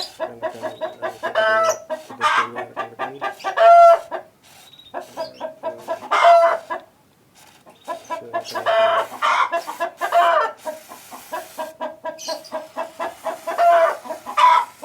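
Bird calls: rapid runs of short clucks broken by louder, drawn-out calls every couple of seconds.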